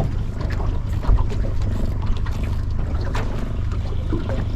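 Small aluminium boat under way: its Yamaha F75 outboard runs with a steady low drone while water splashes and knocks against the hull.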